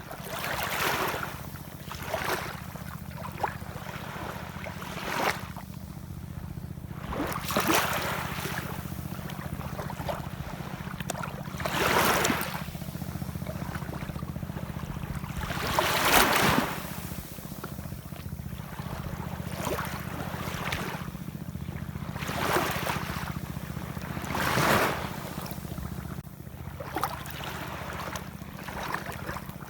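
Ocean waves washing in and drawing back, each wave a rushing swell that rises and fades every few seconds, the biggest about halfway through. A steady low rumble runs underneath.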